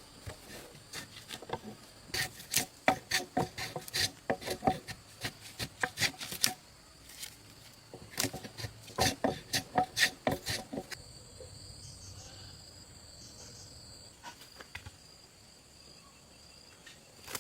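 Hand tool working wood: two runs of quick, rhythmic rasping strokes about three or four a second, with a short pause between them, dying away near the end.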